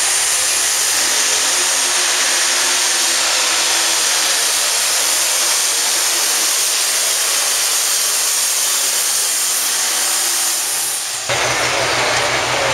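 Pro stock pulling tractor's turbocharged diesel engine at full power, a loud steady roar heavy in hiss. About eleven seconds in, the sound cuts abruptly to an engine idling lower.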